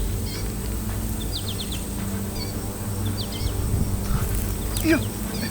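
Birds chirping, in small quick groups of short high chirps, over a steady low hum, with a brief rising call near the end.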